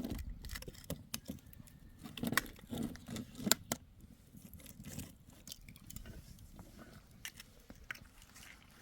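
Irregular light clicks and knocks of objects being handled, with the loudest knocks about two and a half and three and a half seconds in, then sparser and fainter toward the end.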